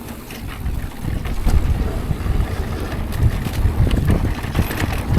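Wind buffeting the microphone while a mountain bike rolls fast down a dirt trail, with scattered knocks and rattles from the bike. The rumble grows louder about a second in.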